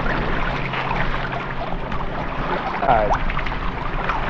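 Water splashing and trickling around a kayak, with small knocks, and a short pitched sound that slides in pitch about three seconds in.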